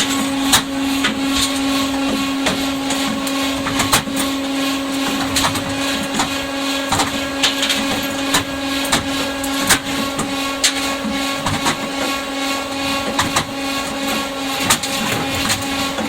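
Engine cracker machine running: a steady motor hum under frequent, irregular metal clanks and knocks as engine parts are broken up and tumble through it.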